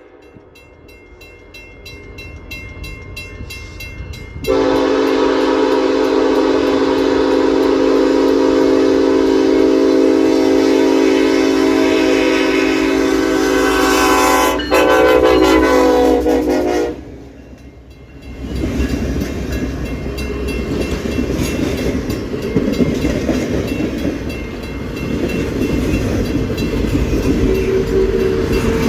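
Freight locomotives approach a grade crossing, their engine rumble growing, then sound a loud multi-note air horn for about 12 seconds with a short break near the end. The horn stops, and the train rolls past the crossing with steady wheel-on-rail noise and rattling cars.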